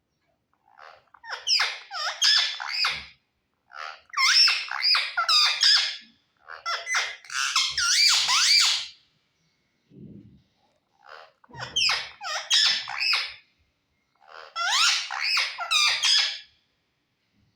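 Pet parrot chattering and squawking in high, squeaky phrases: five bouts of about two seconds each, with short pauses between them.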